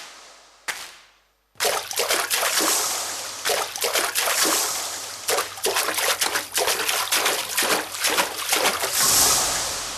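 Recorded rain sound effect played as part of a dance track: a dense patter and splash of rain. It cuts out for about a second near the start, comes back, and fades away near the end.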